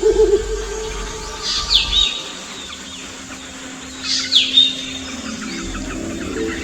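Owls calling to each other. A short quavering low hoot comes right at the start, then two short shrill calls sweeping downward, about a second and a half and about four seconds in. A faint steady low hum runs under the later part.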